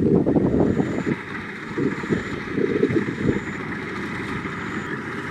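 Kubota DC-70 Plus combine harvester's diesel engine and threshing machinery running steadily, with gusts of wind buffeting the microphone and a faint high beep repeating.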